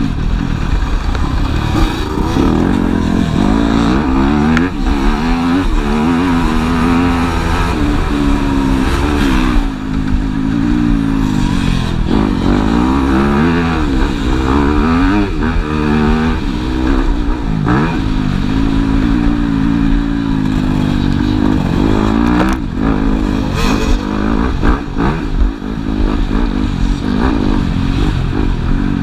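Several motocross bikes racing, their engines revving up and falling back over and over as they take the track, with overlapping pitches from more than one bike.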